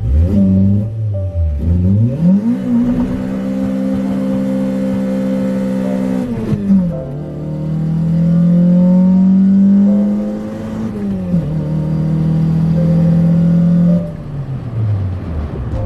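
Toyota Corolla's 4A-GE twin-cam four-cylinder on individual throttle bodies, driven under load: the revs climb and hold, then drop sharply at gear changes several times before climbing again.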